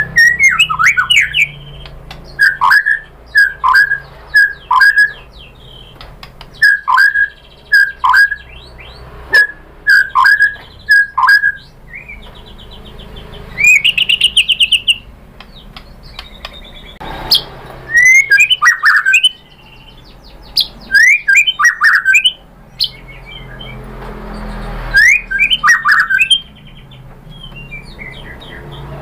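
White-rumped shama (murai batu) singing loudly. Its song comes in bursts of short downslurred whistles repeated in quick series, with a fast rising trill about halfway through and more varied phrases after it.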